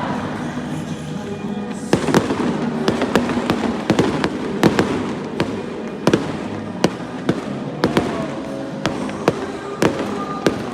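Fireworks display, shells going off in sharp bangs about every half second, coming thicker from about two seconds in, over background music.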